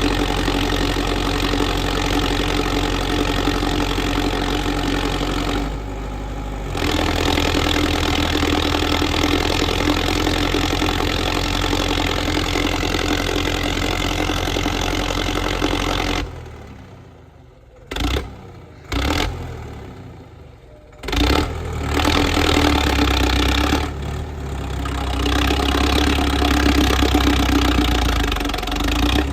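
Tractor's diesel engine running steadily. About two thirds of the way through, the sound drops away for a few seconds, broken by two brief bursts, then the engine running returns.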